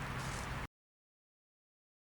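Steady hiss with a low hum that cuts off suddenly about two-thirds of a second in, followed by dead digital silence.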